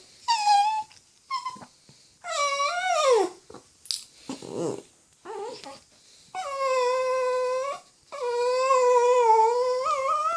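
Pomeagle (Pomeranian–beagle mix) dog whining in a series of high-pitched cries: a few short ones, then two long drawn-out cries of one to two seconds each in the second half, the last wavering in pitch. Separation whining at being left behind by her companions.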